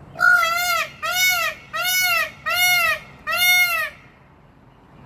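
Peafowl calling: five loud calls in a row, each rising and then falling in pitch, about two-thirds of a second apart, stopping about a second before the end.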